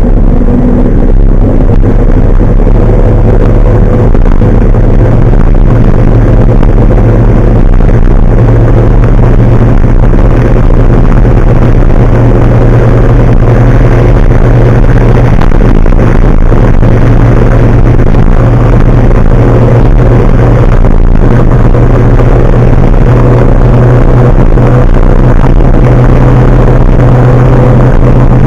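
Large truck's engine running steadily, a loud low drone with a dense rushing noise over it and no change in pitch.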